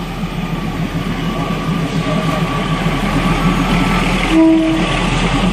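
State Railway of Thailand diesel railcar passing slowly at arm's length, its engine and running gear giving a steady rumble that grows louder. A short tone sounds about four seconds in.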